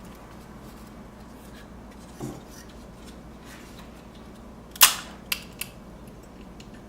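Small hand tools clicking and tapping on a workbench during circuit-board repair: a soft knock about two seconds in, then one sharp loud click followed by two lighter clicks.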